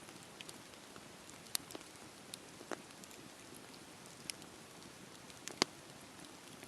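Campfire burning: a steady soft hiss with a few sharp, scattered crackles and pops, the loudest about five and a half seconds in.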